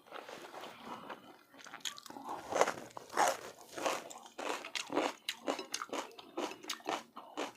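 A person chewing and biting food close to the microphone: irregular crunchy, clicking mouth sounds that grow busier after about two seconds.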